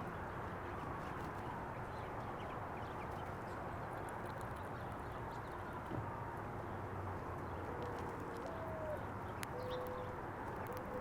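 Steady outdoor background noise with a few faint held tones, and small sharp clicks in the second half.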